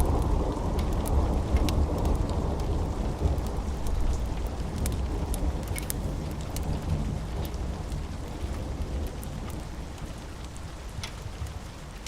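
Steady rain with a long, low roll of thunder that slowly dies away. Scattered sharp crackles sound over the rain.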